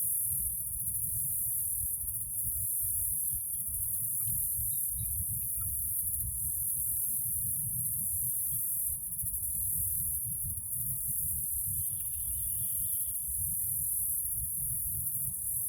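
Steady high-pitched drone of an insect chorus, crickets or similar, over a low rumble. A few faint short chirps come through, with one brief trill about three quarters of the way in.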